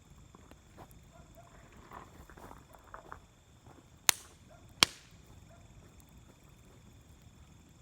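Wood fire crackling in a fire pit: soft scattered crackles, then two loud sharp pops about four and five seconds in.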